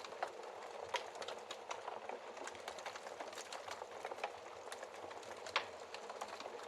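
Wood fire crackling steadily, with irregular small snaps and a couple of louder pops from the burning wood, one about a second in and one near the end.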